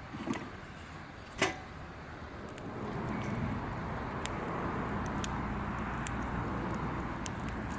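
Wood fire crackling in a fire stand, with sharp irregular pops, a couple of knocks early and a steady rushing noise that swells about two and a half seconds in.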